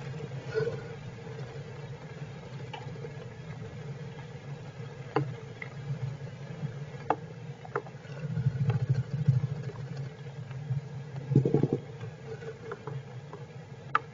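Squirrels shifting about inside a nest box: brief rustling a little after eight seconds in and again about eleven and a half seconds in, over a steady low hum and scattered light ticks.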